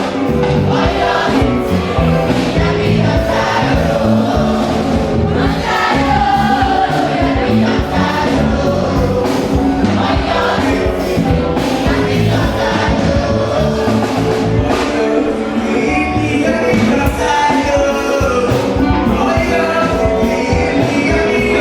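Church choir singing a gospel song over a band with steady drums.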